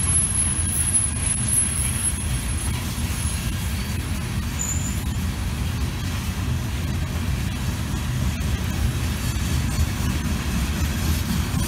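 Open-top hopper cars of a freight train rolling past: a steady low rumble of steel wheels on the rails.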